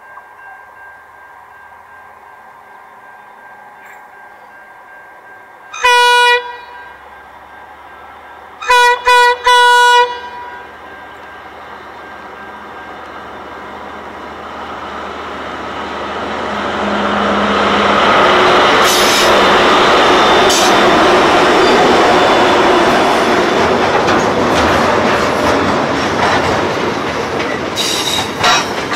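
SCT Logistics freight train with diesel locomotives approaching and passing. The lead locomotive's horn sounds one short blast about six seconds in, then three quick blasts about three seconds later. After that the engine and wheel noise grows loud as the locomotives pass, and the box wagons roll by with wheel clicks over the rail joints.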